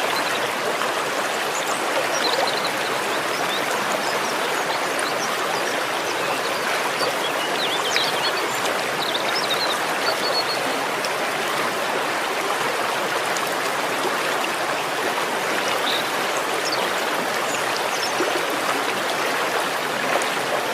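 Running water splashing and trickling steadily, like a small stream or fountain, with a few faint high bird chirps scattered through it.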